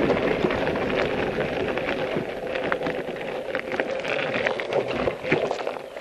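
Wind rushing over the microphone while cycling, with scattered small clicks and rattles from the bike and the loosely held camera. It fades gradually toward the end.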